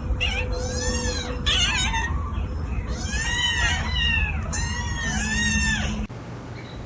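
Young kittens mewing: about six high-pitched calls in quick succession, each rising and then falling in pitch. The sound cuts off suddenly about six seconds in.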